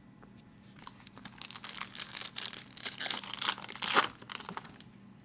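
Foil wrapper of a hockey trading-card pack being torn open and crinkled: a dense run of crackles from about a second in to near the end, loudest around four seconds in.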